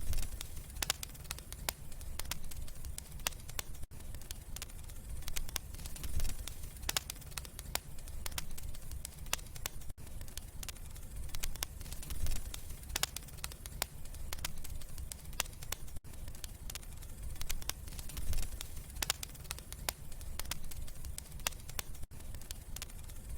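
Wood fire crackling in a fireplace: frequent sharp pops and snaps scattered over a low steady rumble of the flames.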